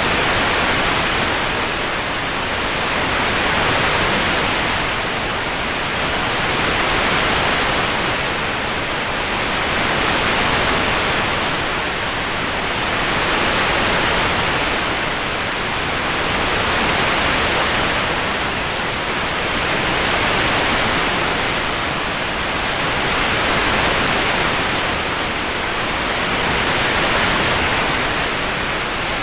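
Steady rain-sound noise track: an even hiss with no distinct drops, swelling and easing gently about every three and a half seconds.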